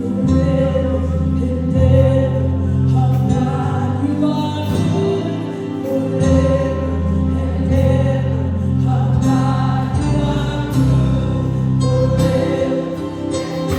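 Gospel worship music: a band with sustained bass and keyboard chords under singers holding long notes.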